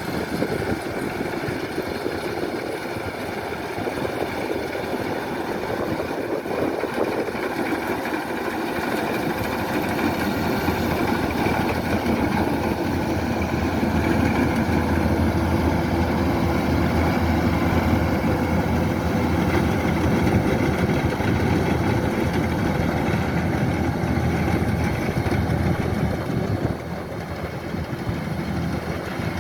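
Kubota DC-105X combine harvester's diesel engine and machinery running steadily, growing louder over the first half and dipping briefly near the end.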